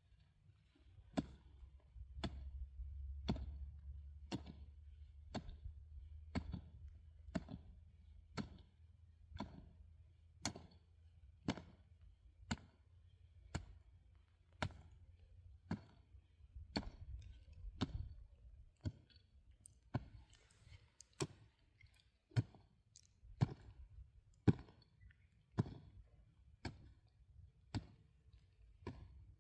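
Pickaxe striking rock over and over, one sharp knock about every second, over a faint low rumble.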